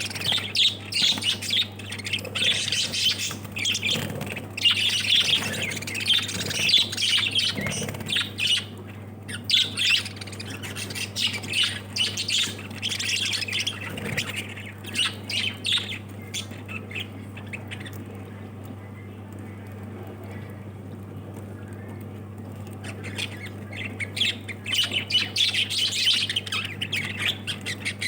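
A flock of pet lovebirds calling, a dense run of rapid chirps and sharp squawks that thins out for a few seconds past the middle and picks up again near the end. A steady low hum runs underneath.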